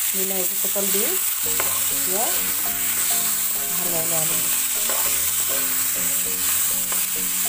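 Chicken, onion and tomato pieces sizzling in hot oil in a kadai, stirred and turned over with a spatula; a steady frying hiss throughout.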